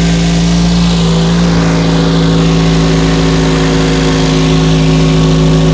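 2007 Toyota Corolla's four-cylinder engine running steadily at an even speed, with a steady hum, just after new spark plugs and a valve cover gasket were fitted: a run to check that it starts without misfiring and does not leak.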